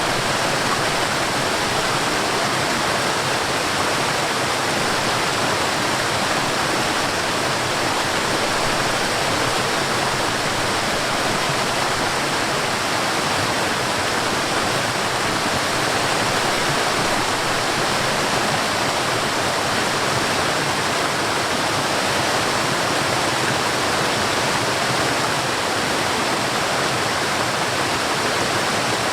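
Forest waterfall: water falling and rushing in a steady, unbroken roar of noise.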